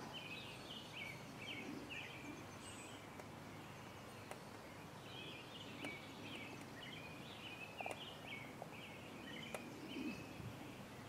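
A songbird singing two long phrases of quick, jerky chirping notes, faint over a steady outdoor hiss, with a few soft clicks near the end.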